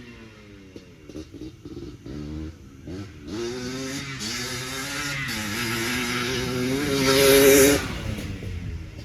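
Yamaha Blaster's two-stroke single-cylinder engine revving through its new FMF exhaust, pitch rising and falling as the throttle is worked. It climbs to its loudest rev about seven to eight seconds in, then drops back off.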